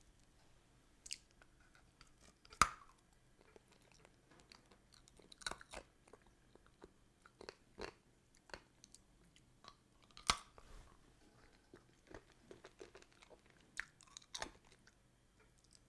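Ice cubes being bitten and chewed close to the microphone: irregular sharp crunches and cracks with softer wet mouth clicks between, the loudest crack about two and a half seconds in and another strong one about ten seconds in.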